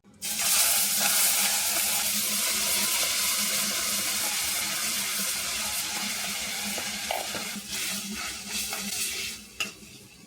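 Food sizzling in hot oil in a pan, a steady hiss that cuts in suddenly and fades out near the end, with a few light knocks of a utensil on the pan.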